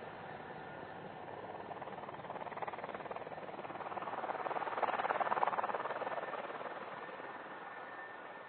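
Mil Mi-35M twin-turboshaft military helicopter flying past, its rotor chop building to a peak about five seconds in and then fading away.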